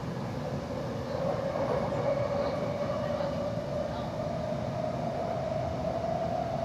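Busan Metro Line 3 train running, heard from inside the car: a steady rumble of wheels on the rails, with a traction-motor whine that slowly rises in pitch as the train gathers speed.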